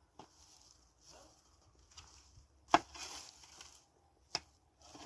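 A few sharp knocks or clicks of handling, the loudest about three seconds in and another near the end, with brief rustling hiss between them.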